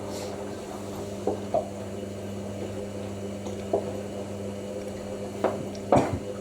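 Hoover NeXtra front-loading washing machine early in its wash cycle: the drum tumbles the wet load, with a slosh or splash of water every second or two over a steady low hum.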